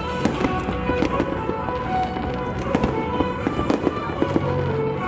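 Aerial fireworks display bursting continuously: many sharp bangs and crackles close together, with music playing along underneath.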